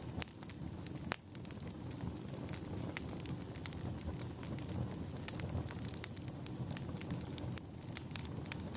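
Wood fire burning in a fireplace: a steady low rumble of flames with irregular sharp crackles and pops from the burning logs, one louder pop about a second in.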